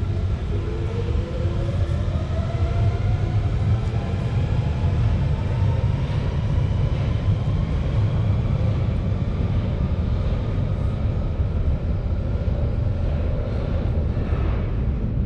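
London Underground Central line train (1992 Stock) accelerating away, its traction motors whining in a rising pitch that levels off after several seconds, over a steady low rumble of wheels on rail in the tunnel.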